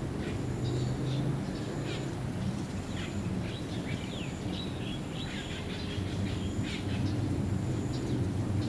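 Birds calling with many short, high chirps and quick whistled notes, over a steady low hum.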